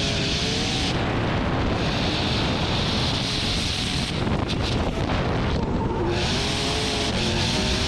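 Toyota GT86 drift car's engine revving up and down, heard onboard, with stretches of loud rushing noise.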